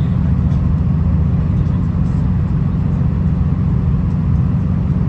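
V/Line VLocity diesel railcar running along the line: a steady, loud, low rumble of the diesel engine and the wheels on the track.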